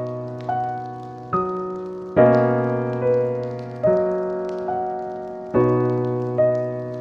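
Slow, gentle solo piano music: soft chords and single notes struck a little under once a second, each one fading away before the next.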